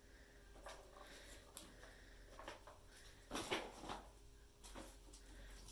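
Faint rustles and soft scuffles of kittens playing with a feather wand toy, over a low steady room hum; the loudest rustles come about three and a half seconds in.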